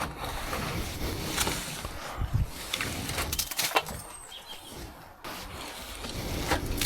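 A garden brush sweeping debris off a shed roof, its bristles scraping in a series of irregular strokes.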